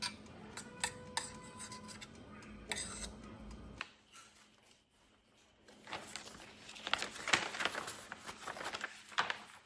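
Small clicks and clatters of household items being handled, like dishes and utensils, with a pause about four seconds in and then a denser run of clattering.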